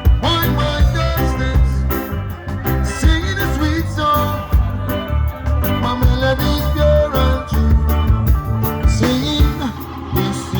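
Reggae band playing, with a steady beat and heavy bass.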